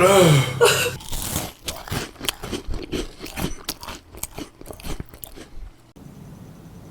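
Close-miked crunching and chewing of someone eating: a quick, irregular run of sharp crunches, which cuts off abruptly near the end to a faint steady hum.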